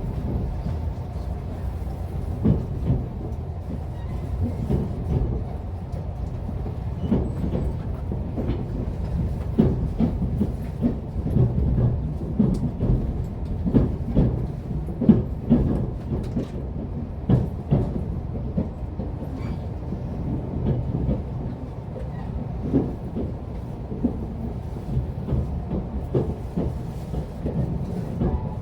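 Running noise inside a JR Central 383 series electric express train: a steady low rumble from the wheels and running gear, with frequent irregular clacks and knocks as the wheels pass over rail joints.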